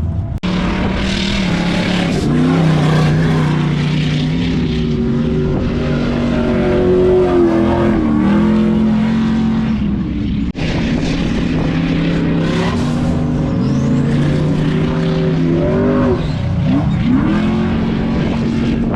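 Car engines revving hard and held at high rpm, the pitch holding and then stepping up and down as the throttle is worked, as in drifting or off-road driving. The sound breaks off sharply twice and picks up again straight away.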